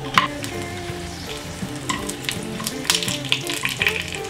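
Dried pasilla chiles frying in hot lard in a skillet, a steady sizzle, with a few clicks and scrapes as a spoon and tongs turn them.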